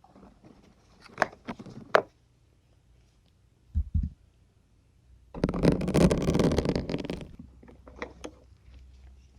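Syringes being pushed into a coarse grey ASMR sponge, close to the microphone. The longest and loudest part is a dense crackle of about two seconds just past the middle. It comes after a few sharp clicks and two low thumps, and a few more clicks follow near the end.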